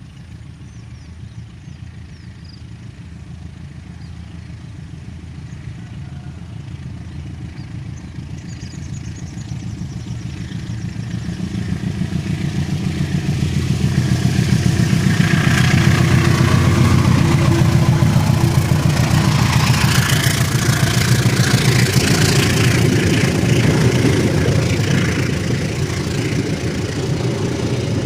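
CC201 diesel-electric locomotive (GE U18C) passing, its diesel engine running with a steady low throb that grows steadily louder. From about halfway in, the rush and rattle of the wheels on the rails builds over it, loudest in the second half before easing slightly near the end.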